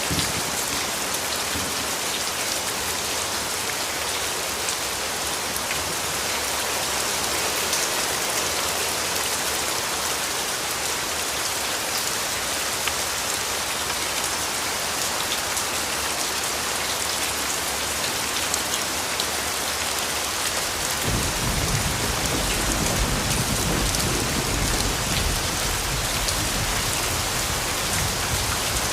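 Steady rainfall with the patter of individual drops. About two-thirds of the way in, a low rumble of distant thunder sets in and carries on under the rain.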